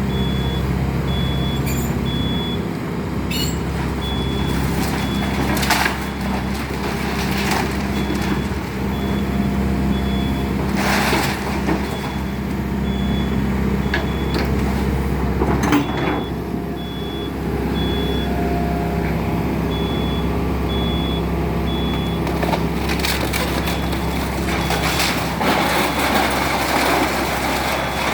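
Excavator engine running steadily while the house's wooden framing is crushed and splintered, with loud cracks and crunches every few seconds. A high, evenly pulsing beep sounds on and off, like a machine's warning alarm.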